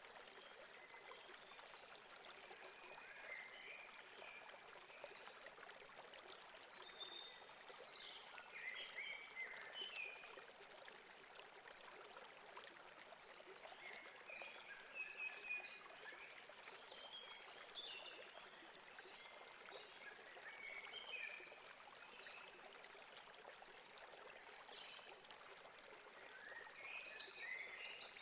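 Faint steady rush of a stream running over rocks, with small birds chirping in short bursts every few seconds.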